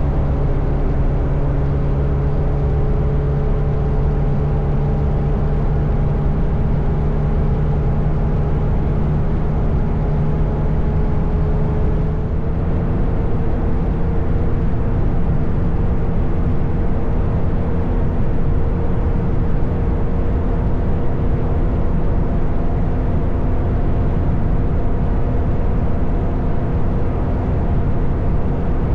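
Motorcycle engine running at a steady highway cruise, with its note rising slightly over the first dozen seconds and then holding even, over a constant low rush of wind and road noise.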